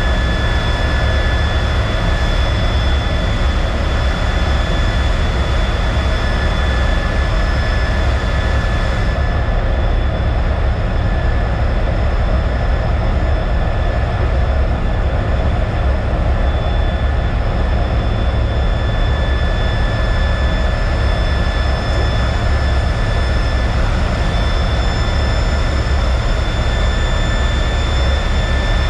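T-33 jet trainer's turbojet engine running steadily: a constant deep rumble with thin, steady high-pitched whines over it.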